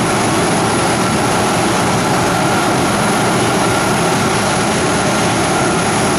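Boeing 737 jet engines running steadily during pushback: a loud, even rush of noise with a thin, steady whine over it.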